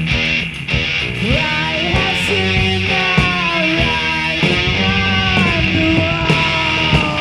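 Rock band playing an instrumental passage: an electric lead guitar line with bending, sliding notes over bass and drums.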